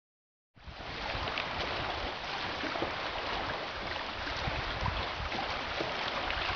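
Steady outdoor noise of wind gusting on the microphone over moving water. It starts abruptly about half a second in.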